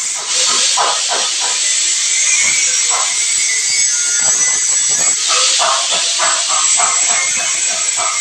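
High-pressure power sprayer shooting a jet of water, a loud steady hiss that swells louder about half a second in and again about five seconds in.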